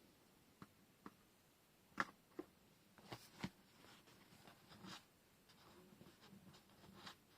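Faint handling sounds of washi tape rolls and paper: scattered light clicks and taps, the sharpest about two seconds in, with a few softer ones after.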